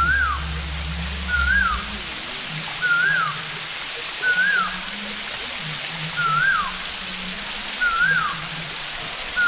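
Steady rush of falling water, with an animal call repeating over it about every second and a half: a short whistled note that rises and then drops quickly. A low rumble sits under it for the first second or so.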